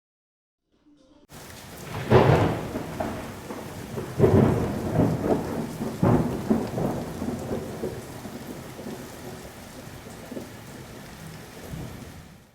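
Thunder rumbling over steady rain, with three loud swells in the first half that die away into the patter of rain. It starts and cuts off abruptly.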